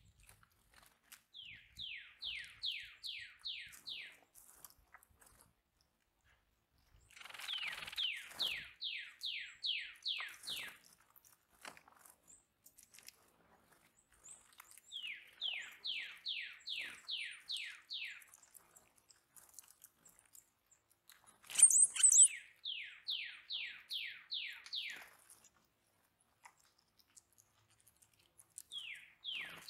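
Northern cardinal singing, repeating a phrase of about eight quick falling whistles four times, with a fifth phrase starting near the end. A brief, loud, very high chirp comes just before the fourth phrase.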